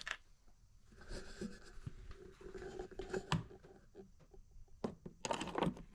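Quiet handling sounds of small objects: light rustling and scattered small clicks, with a sharper click in the middle and a cluster of clicks near the end.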